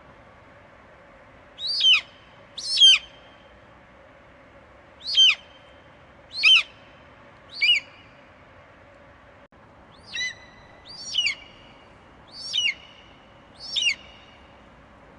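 An eagle screeching: nine short, high calls, each sliding down in pitch, at uneven intervals, over a faint steady background hiss.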